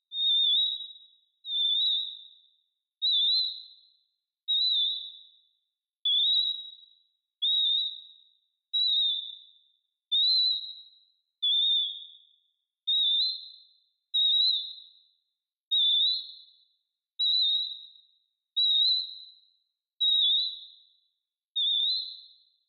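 Synthesized bird-like chirps from the Esoteric Synth app's 'Simple Birds' patch: two oscillators with their frequency randomly varied. Short, high, wavering tones that start sharply and fade, one about every second and a half.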